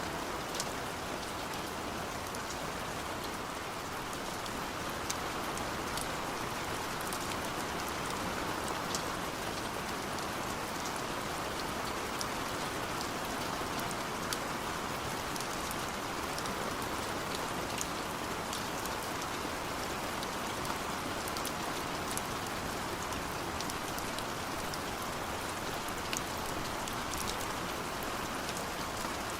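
Steady rain falling: a dense, even hiss with many scattered sharp drop ticks.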